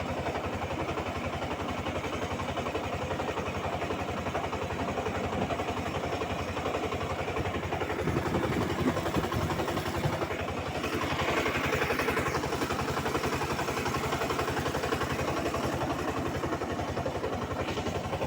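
Small engine running steadily with a fast, even firing beat, with a brief rush of hiss about eleven seconds in.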